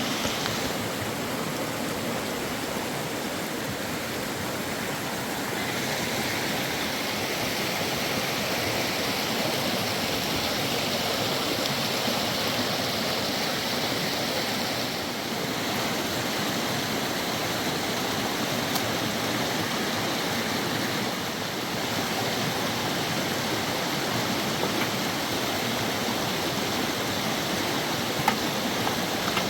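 Fast-flowing river water rushing steadily, with one brief click near the end.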